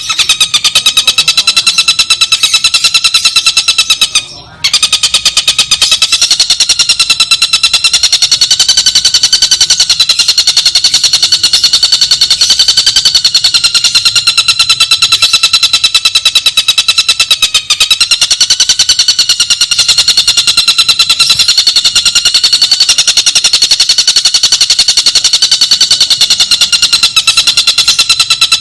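Tengkek buto (stork-billed kingfisher) on a song-training recording: a long, unbroken rattling trill of very fast, even notes at a steady pitch, with one short break about four seconds in.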